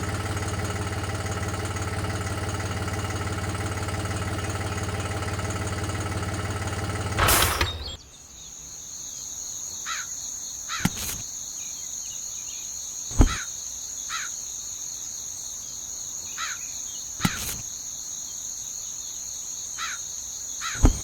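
A steady hum that stops about seven seconds in, then outdoor ambience: a continuous high insect drone with short falling bird calls and a few sharp clicks.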